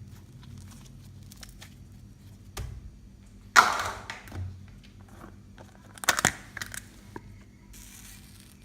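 Slime being squeezed and stretched by hand, making a few short sticky squishes. The loudest comes a little under halfway in, another about three-quarters through.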